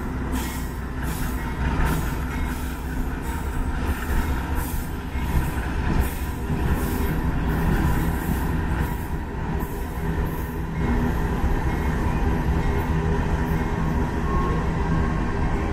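Union Pacific GE AC44CW diesel-electric locomotives running as they pass, followed by empty coal hopper cars rolling by. Wheels clack about twice a second for roughly the first ten seconds, then the sound settles into a steady rolling rumble.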